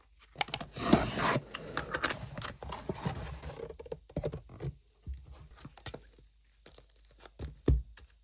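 Packaging being torn open and handled: a loud crinkling, tearing rustle early on, then scattered rustles and small clicks, with a soft thump near the end.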